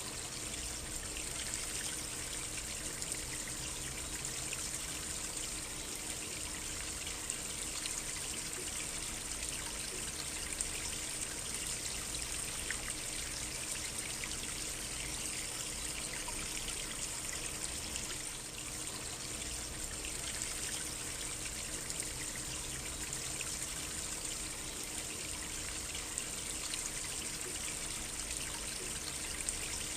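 A brook's water trickling steadily, with small splashes scattered through it.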